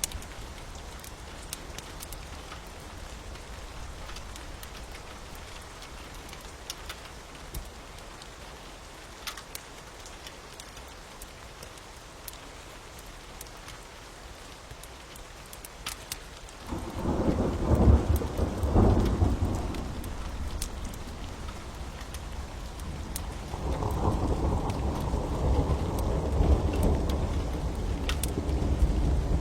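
Steady rain with scattered sharp crackles, overlaid by thunder. Low rumbles of thunder swell in about two-thirds of the way through, ease, and come back louder near the end.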